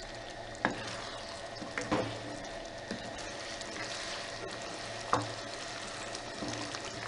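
Chicken curry gravy with curd bubbling and sizzling in the pan as it is stirred, the spoon knocking against the pan about four times, loudest about five seconds in.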